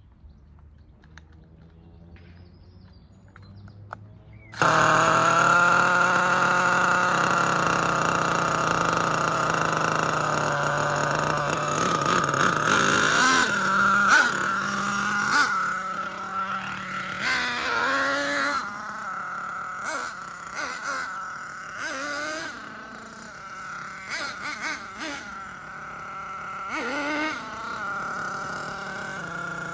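Nitro RC truck's Force R36 5.9 cc two-stroke glow engine running at high revs, cutting in abruptly about four and a half seconds in. Its pitch dips and climbs again several times as the throttle is worked, and it is quieter in the second half.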